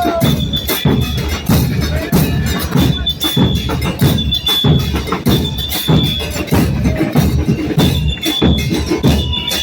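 Murga porteña percussion: bombos con platillo, bass drums with cymbals mounted on them, pounding out a steady driving beat, with a high steady tone sounding on and off above it.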